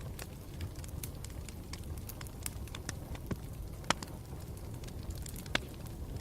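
Campfire burning, with a steady low rumble and irregular sharp crackles and pops, two louder pops about four and five and a half seconds in.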